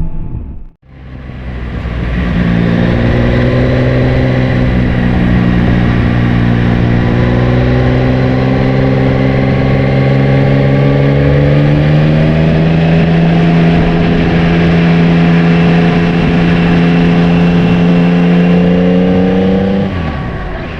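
Yamaha Tracer 9's inline three-cylinder engine pulling under load, its pitch rising slowly and steadily as the bike gains speed. The sound drops out briefly about a second in and again near the end.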